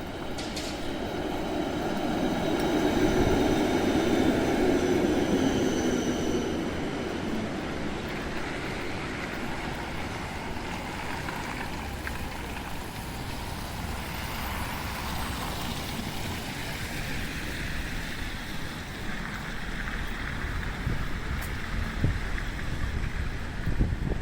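City street ambience in the rain: a steady hiss of rain and traffic, with a vehicle passing close and loudest about three to five seconds in, then fading.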